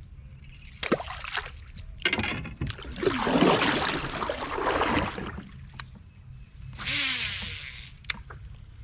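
Water splashing and sloshing in several bursts. The longest lasts about two seconds in the middle, and a shorter one comes near the end.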